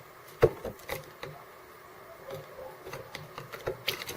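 Birds pecking at seeds close to the microphone: irregular sharp taps, the loudest about half a second in, with a few more near the end.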